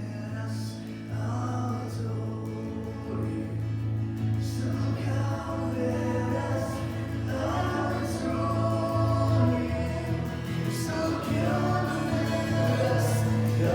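Worship song in church: voices singing together over sustained instrumental accompaniment.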